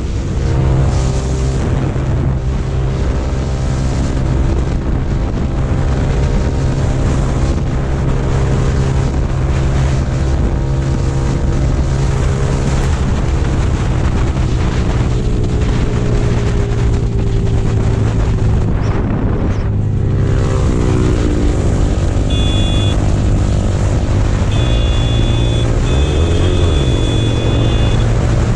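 Yamaha sport motorcycle's engine running at highway speed, heard from the rider's seat with wind rushing over the microphone. The engine note drops as the bike slows, with a brief lift-off and a downshift from sixth to fifth about two-thirds of the way through. Near the end a horn beeps a few times.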